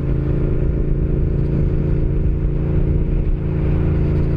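Yamaha MT-07's parallel-twin engine and exhaust running at a steady speed while riding, holding one even pitch with no revving.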